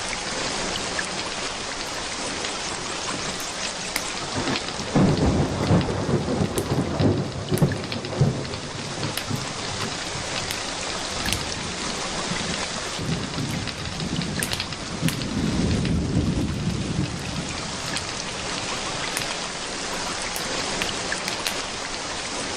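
Steady rain with thunder rumbling twice, first about five seconds in and again about thirteen seconds in, over scattered sharp crackles.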